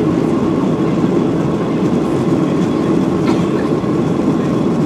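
Boeing 737-800's CFM56 jet engines and wheels rumbling steadily as the airliner rolls along the ground for take-off, heard from inside the cabin, with a faint steady whine.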